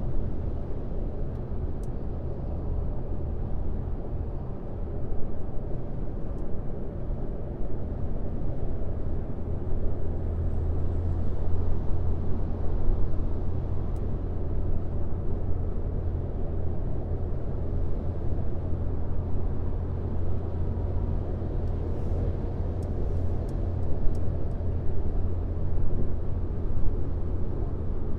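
Steady road noise of a car driving on a highway: a continuous low rumble and tyre hum, deepening slightly about ten seconds in, with a few faint clicks.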